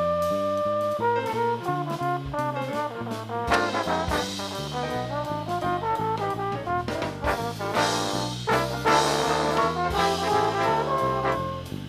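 Trombone ensemble playing a jazz big-band arrangement in several-part harmony, with sustained and moving chord notes and a few sharp accents.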